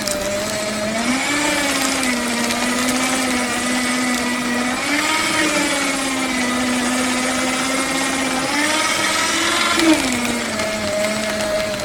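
Paper shredder motor running with a steady hum. Its pitch rises for a few seconds at a time, twice, and settles back about ten seconds in, with a brief sharp sound at that point.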